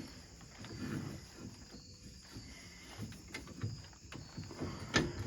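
Irregular soft knocks, clicks and scrapes of hands and tools working on a side-by-side's brake caliper during a pad change, with a sharper click about five seconds in.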